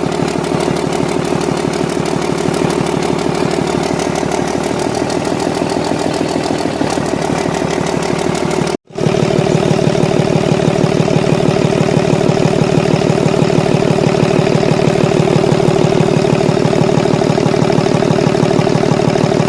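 Six-cylinder, 24-valve engine idling steadily on test, with a fast, even beat. The sound drops out for a split second about nine seconds in and then carries on slightly louder.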